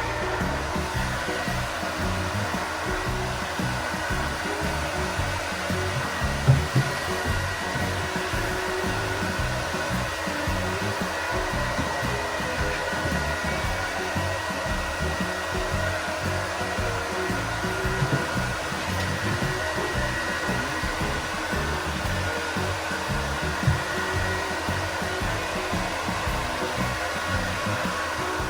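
Hair dryer running steadily, with a constant whirring hiss and a steady whine in it, drying a dog's long coat. A few short knocks stand out about six seconds in and again later.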